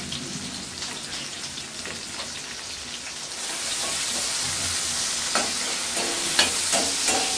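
Tomato pieces and spices sizzling in hot oil in a steel pan. About three and a half seconds in, a spatula starts stirring them and the sizzle grows louder, with a few scrapes of the spatula against the pan.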